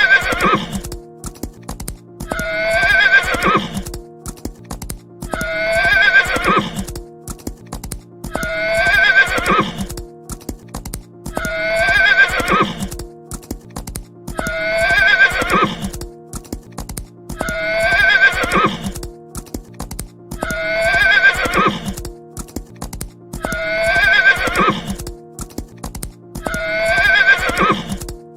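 A horse neighing over and over, the same whinny repeated about every three seconds, with hoof clip-clops between the calls and steady background music underneath.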